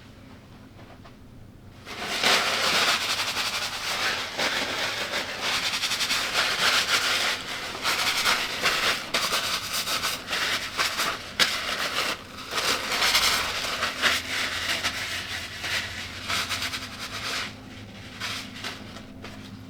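Loud, dense crunching and crackling of crunchy food being chewed close to the microphone. It starts about two seconds in and thins to scattered crunches near the end.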